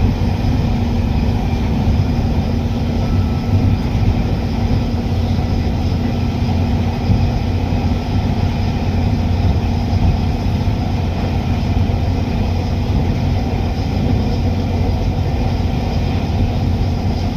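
A train running, with a steady low rumble.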